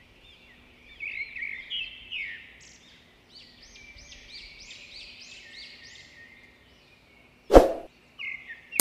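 Birds chirping, a quick run of repeated rising-and-falling calls, then a single short loud burst of noise near the end.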